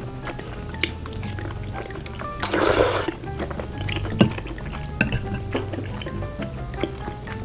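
Background music plays throughout. About two and a half seconds in comes a loud, wet slurp of Chinese glass noodles, with scattered wet chewing and mouth clicks around it.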